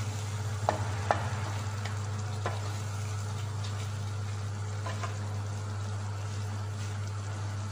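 Chicken pieces sizzling in cream in a wok, stirred with a wooden spatula that knocks against the pan a few times, two of the knocks close together about a second in. A steady low hum runs underneath.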